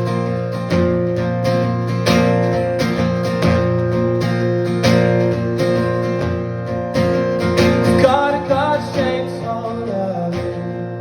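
Acoustic guitar strumming slow, evenly spaced chords. About eight seconds in, a short wavering melodic line rises over the chords.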